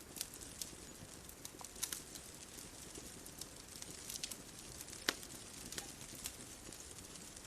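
Wood fire crackling: irregular sharp pops and snaps, the loudest about five seconds in, over a steady soft hiss.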